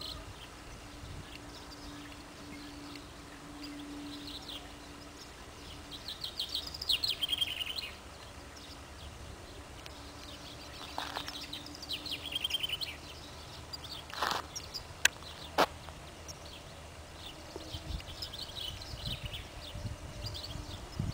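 Small birds singing in the countryside: repeated fast trilling chirps that come and go in several bursts. A low steady hum runs through the first few seconds, and two sharp clicks about half a second apart come roughly two-thirds of the way in.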